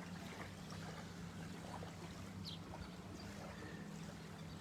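Faint lakeside ambience: a steady low hum with soft water sounds, and a few faint short chirps.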